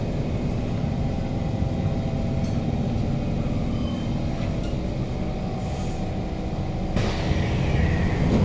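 Kawasaki Heavy Industries C151 train running and slowing to a stop along a station platform, heard from inside the carriage as a steady rumble. About seven seconds in, the carriage doors open with a sudden rush of noise.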